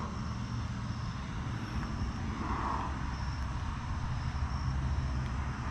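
Diesel truck engine idling with a steady low hum.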